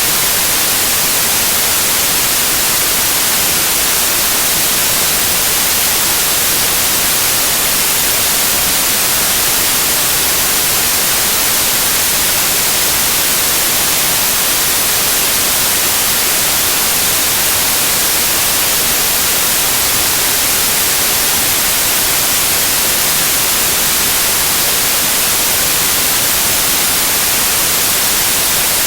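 Loud, steady white noise: an even, unchanging hiss, brightest in the high end.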